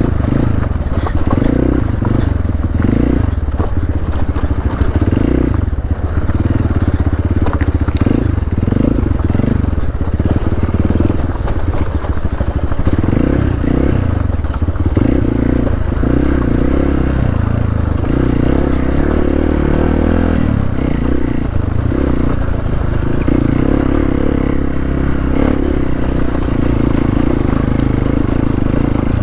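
Hero Xpulse 200's single-cylinder four-stroke engine running under load off-road, the throttle opened and closed again and again so the engine note keeps swelling and dropping.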